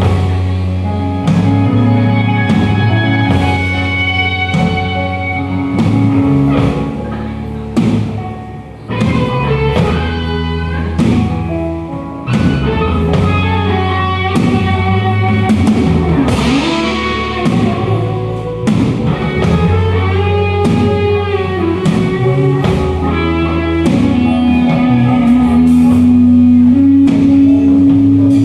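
Rock band playing an instrumental passage: a lead guitar line with bent notes over bass and a drum kit keeping a steady beat.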